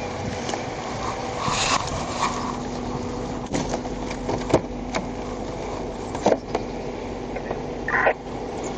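Steady vehicle running noise with a faint constant hum, broken by a few short sharp clicks and knocks.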